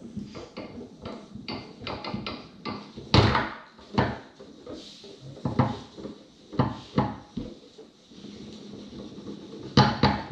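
Foosball being played on a Tornado table: an irregular run of sharp clacks and knocks as the ball is struck by the players' men and hits the table walls, with the rods banging. The loudest knocks come about three seconds in and again near the end.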